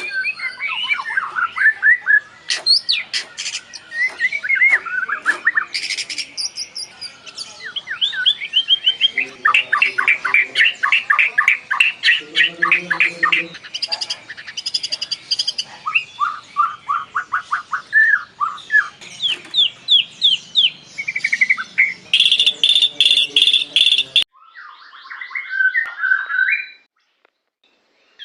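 White-rumped shama (murai batu) singing a long, varied song of rapid whistled trills and repeated notes. The song breaks off abruptly near the end, a short phrase follows, then a brief silence.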